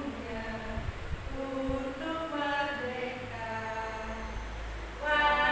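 A group of voices singing a song together without accompaniment, most likely a class of schoolchildren singing in unison.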